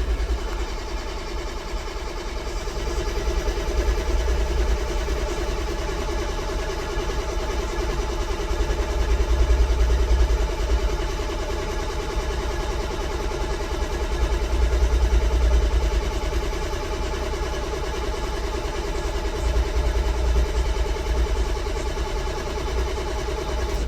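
Ford 7.3L Power Stroke V8 diesel cranking on its starter in a cold start with the block heater unplugged, turning over steadily for over twenty seconds without catching, with louder swells about ten and fifteen seconds in. The owner blames the hard start on bad glow plugs and a bad glow plug relay.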